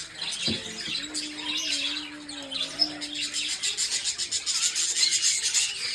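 A flock of budgerigars chirping and chattering continuously. A low steady tone runs under it for a couple of seconds near the start.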